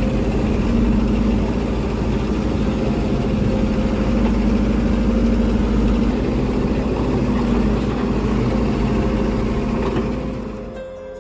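Tractor engine running at a steady speed, a loud low rumble with an even hum, fading out near the end.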